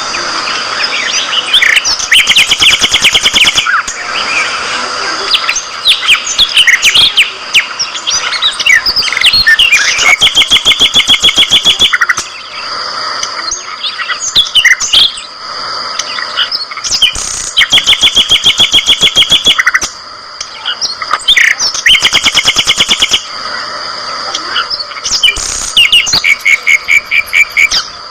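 Many budgerigars chirping and chattering, broken several times by loud, rapid, evenly pulsed trills lasting about two seconds each.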